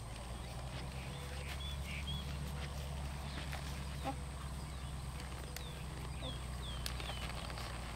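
Outdoor ambience: a bird giving short downward-slurred chirps, twice early on and then four in quick succession from about five and a half seconds in, over a steady low rumble and a few faint clicks.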